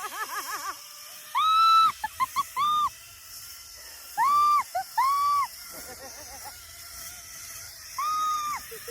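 People whooping with excitement while riding a zip line: a string of short, high, rising-and-falling "woo" calls, some drawn out and some clipped, with a faint steady hum underneath.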